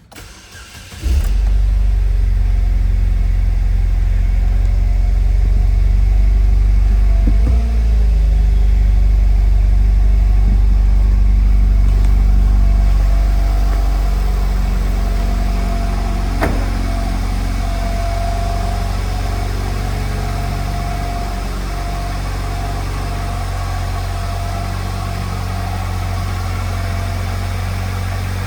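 2008 Saturn Sky's 2.0-litre turbocharged four-cylinder engine starting about a second in and idling steadily, running a little quieter from about halfway through.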